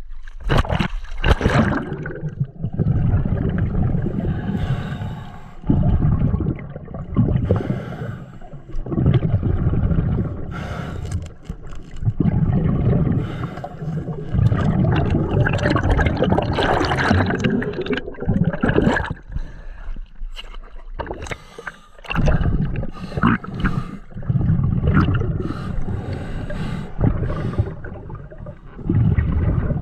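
Underwater gurgling of a scuba diver's exhaled bubbles, coming in long surges a few seconds apart with brief lulls between breaths and scattered clicks.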